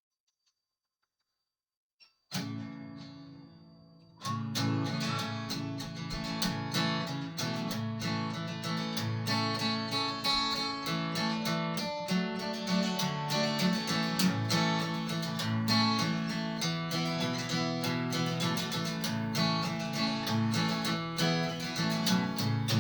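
Instrumental intro of a country song: after about two seconds of near silence, a single strummed guitar chord rings and fades, then steady, fast acoustic guitar strumming sets in and carries on.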